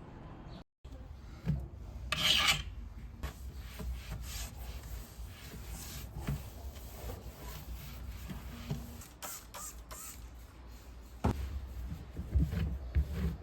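Rubbing and scraping, with a louder scrape about two seconds in and scattered light knocks and clicks.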